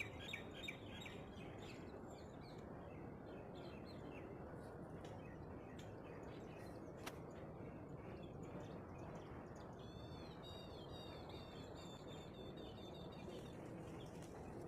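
Birds chirping over a faint steady background hiss: a few short chirps at the start, then a quick series of arched, repeated chirps about ten seconds in.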